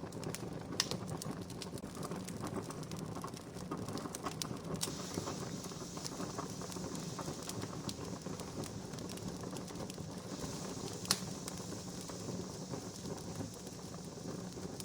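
Wood campfire burning with a steady hiss and scattered crackles, with two sharp pops standing out, about a second in and about eleven seconds in.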